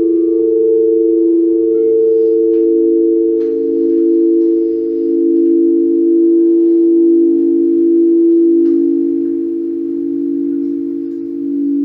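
Quartz crystal singing bowls ringing: a few deep, steady tones held together, swelling and fading slowly, with a lower tone coming in stronger after about two seconds. Faint, light chime-like strikes sound above them now and then.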